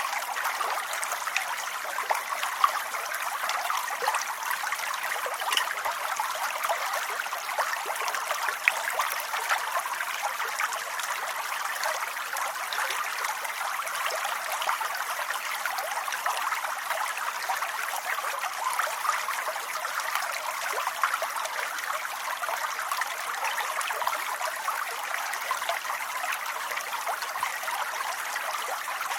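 Steady rain falling: an even hiss without pauses, full of tiny drop ticks.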